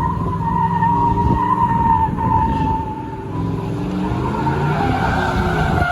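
A car's tyres squealing in one long, wavering screech that drops in pitch near the end, over its engine running hard: the car sliding sideways in a drift.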